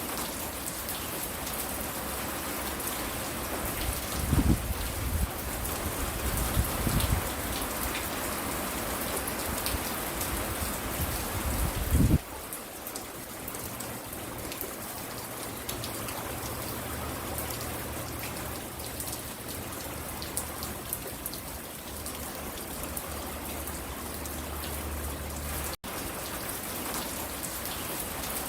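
Steady rain falling, a dense hiss of drops. A few low rumbles come through between about 4 and 7 seconds in, with a louder one at about 12 seconds, and the sound cuts out for an instant near the end.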